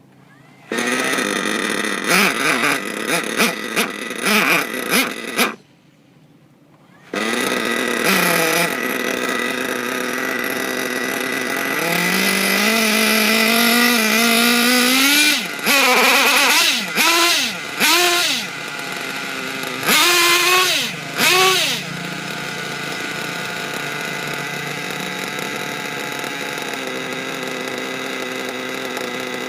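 Trackstar 21 nitro RC engine starting about a second in, running with a few revs, then dying after about five seconds. It is restarted about seven seconds in, runs up in pitch, is given several sharp throttle blips, then settles to a steady high-pitched idle.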